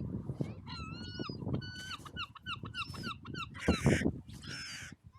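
Gulls calling: drawn-out, bending cries followed by a quick series of short yelping notes, with two harsh carrion crow caws near the end. A low rumble of wind on the microphone runs underneath.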